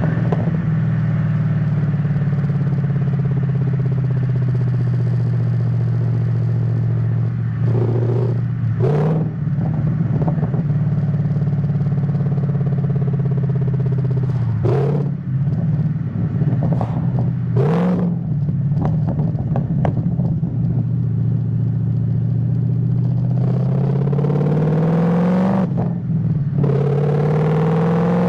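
Ford Mustang GT S197 V8 running under way, holding a steady note for most of the time with a few short breaks in pitch. Near the end it accelerates: the note climbs, drops sharply as a gear is changed, then climbs again.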